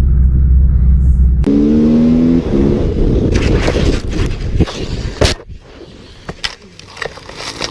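A heavy motor rumble, then from about a second and a half in a motorcycle engine running. Midway there is a run of sharp knocks and clattering, typical of a bike going down. After that it dies down to scattered clicks.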